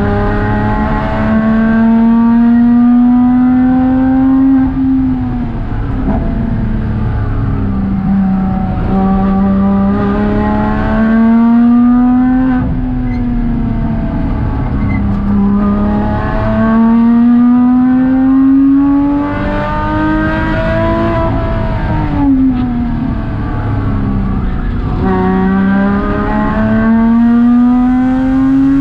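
Porsche Cayman 987.2's flat-six engine heard from inside the cabin at track pace, climbing in pitch through four long pulls under acceleration, dropping back off between them as the driver lifts for the corners. Steady road and tyre noise runs underneath.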